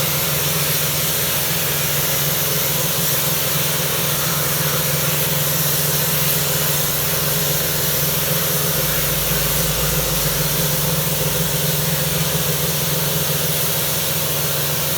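Pressure washer running, with a steady motor hum under the hiss of the water jet spraying. A deeper low hum joins for a few seconds in the middle.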